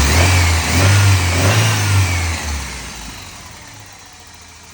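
A 1994 Toyota pickup's 22RE 2.4-litre four-cylinder engine revved up and back down about three times, smooth running. After about two and a half seconds the engine sound dies away.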